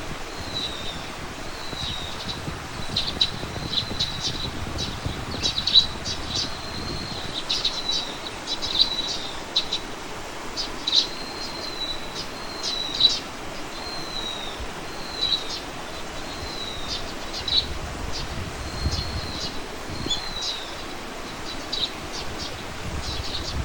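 Small birds chirping: a run of short, high notes, some slurring down in pitch, repeated every second or so, over a low rumble that swells at times.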